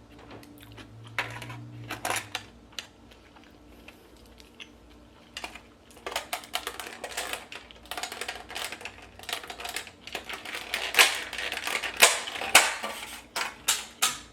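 Close-miked mukbang eating sounds: rapid irregular clicks and crackles from chewing and handling the food, growing denser and louder in the second half.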